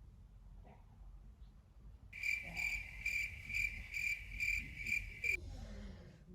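A high-pitched chirping tone that swells about twice a second. It starts about two seconds in and stops abruptly about three seconds later.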